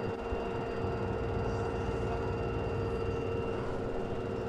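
LG front-loading washing machine in its spin cycle: a steady motor whine with several held tones over a low drum rumble.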